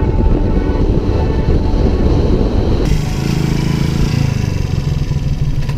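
Motorcycle ride sound: a dense low rumble with wind on the microphone, then, after an abrupt cut about halfway through, a motorcycle engine running steadily.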